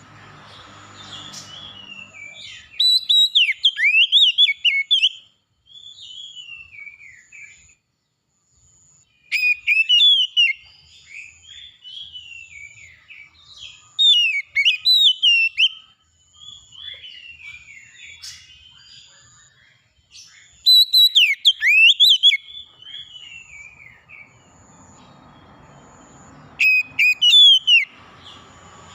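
Songbird singing: loud bursts of rapid, sweeping whistled phrases every few seconds, with softer twittering between them. A faint high note repeats at an even pace behind the song.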